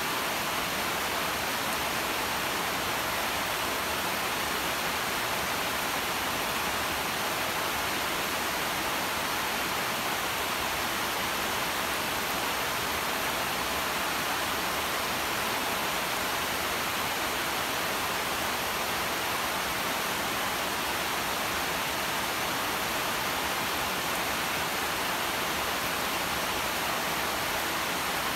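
Steady rain falling on broad vine leaves, an even hiss with no drips or thunder standing out.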